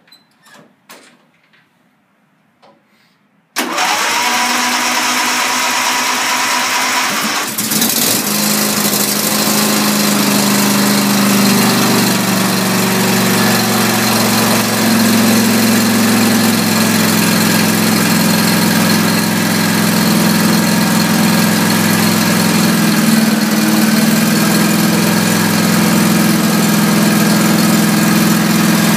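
John Deere LA175 riding mower's 26 hp Briggs & Stratton engine started cold, at about 30 degrees after a few weeks unused. After a few faint clicks, the electric starter cranks for about four seconds. The engine catches, its speed settles over a few seconds, and it then runs steadily.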